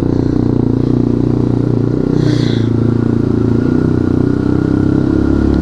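Dirt bike engine running steadily under way, heard from the rider's position, with a brief hiss about two seconds in.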